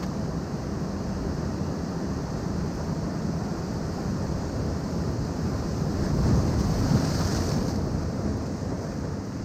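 Ocean waves washing against rocks along a rocky shore, a steady surge that swells louder about six seconds in as a wave breaks, with wind rumbling on the microphone.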